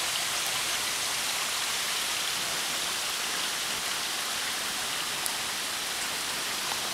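Heavy rain falling steadily on leaves and grass: a dense, even hiss with a few sharper drop ticks.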